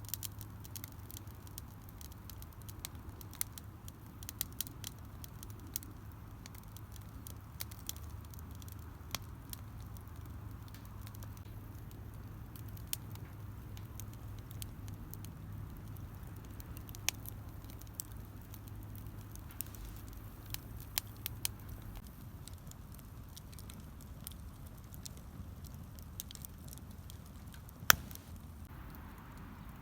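Wood campfire crackling, with scattered sharp pops and one loud snap near the end. A low steady hum underneath stops about two-thirds of the way through.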